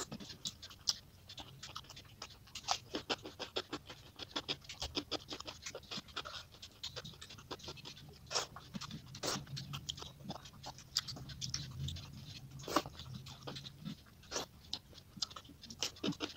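Eating sounds played back at three times speed: rapid, irregular wet clicks and smacks of chewing, and of fingers mixing rice on a steel plate.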